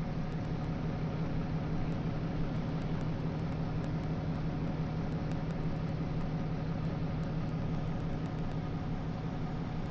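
Vehicle engine idling steadily: an even, unchanging hum.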